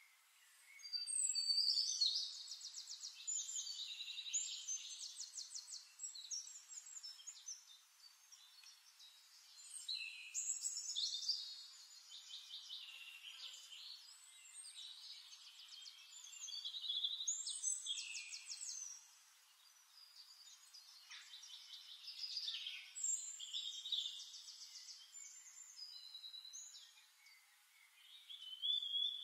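Songbird singing: high, rapid trilling and chirping phrases a few seconds long, repeating with short pauses between them.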